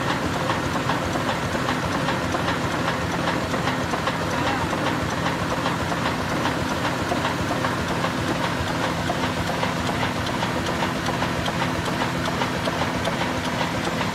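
Old Ruston Hornsby diesel engine running steadily, with an even, regular knock from its firing strokes.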